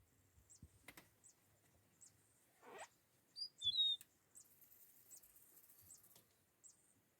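Faint bird chirping: short high chirps repeat at a steady pace, about one every 0.7 seconds. A few louder, brighter chirps come a little before the middle, just after a brief rising note.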